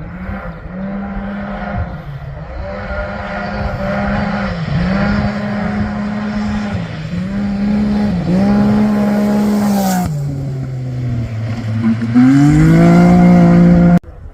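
Rally-raid competition vehicle's engine at full throttle, with several brief dips in pitch as it changes gear. About ten seconds in the pitch drops as it lifts off, then it climbs again until the sound cuts off abruptly near the end.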